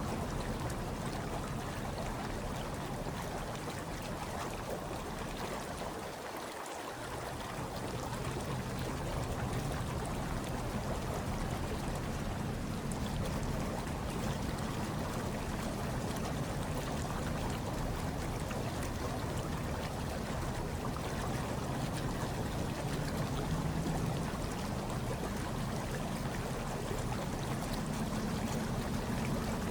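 Hot tub water bubbling and churning steadily over a low rumble. The rumble briefly drops away about six and a half seconds in.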